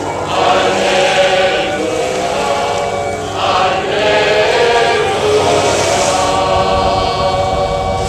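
A flock of gulls calling over one another: many overlapping cries at once, loud and without a break.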